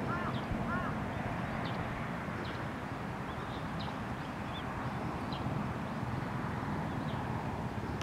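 Two short harsh bird calls in the first second, with faint high chirps of small birds scattered through, over a steady low rumble.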